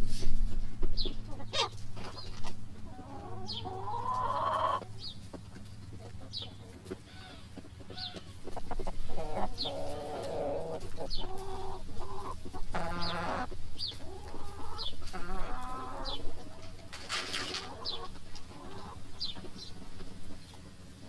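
Chickens clucking on and off, with short high chirps repeating about once a second.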